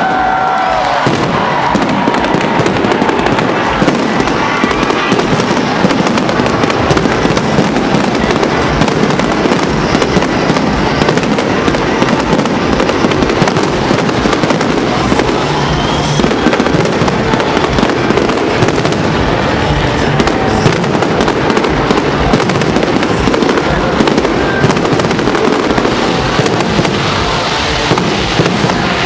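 Large fireworks display: a dense, continuous barrage of shell bursts, bangs and crackling with no break.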